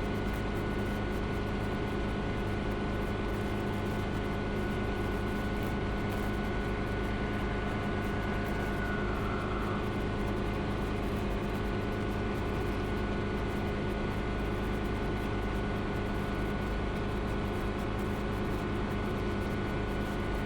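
Schweizer 300 helicopter's piston engine and rotors heard from inside the cabin in flight: a steady drone with several even, unchanging tones.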